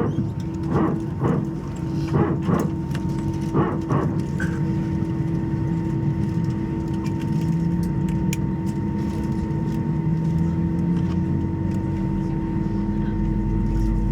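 Airbus A320's hydraulic power transfer unit barking: about seven short, bark-like bursts, mostly in pairs, over the first four seconds. Then comes the steady drone of the engines and cabin air with a constant hum, growing deeper near the end. The PTU bark is typical of the A320 on the ground around engine start.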